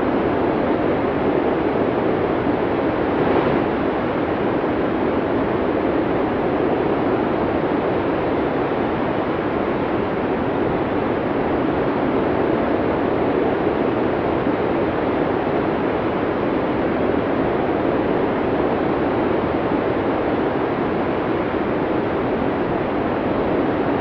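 Snowstorm wind blowing as a steady, even rush, with a slight gust about three seconds in.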